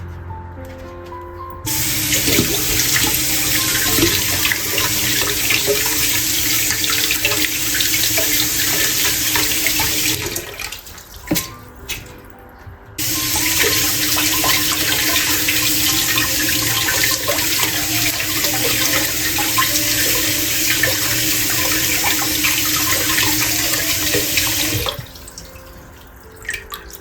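Water running from a tap into a sink, in two long runs: one starting about two seconds in and stopping near the middle, the other starting a few seconds later and stopping shortly before the end. Soft background music plays underneath.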